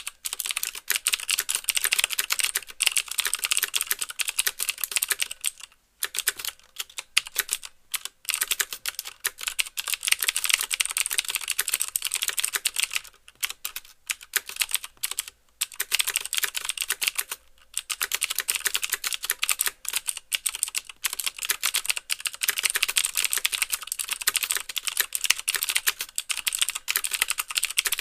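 Mechanical keyboard with clicky Cherry MX Blue switches being typed on fast and continuously: each keystroke gives a sharp click plus a clack as the key bottoms out, with a few brief pauses between bursts.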